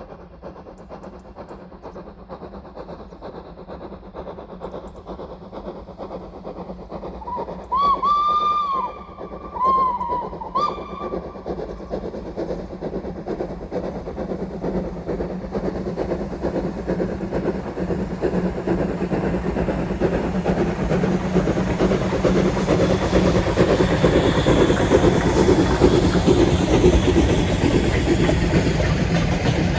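Steam locomotive approaching on a heritage railway: two whistle blasts about a third of the way in, the first longer, then the train's running and rumble growing steadily louder as it comes past.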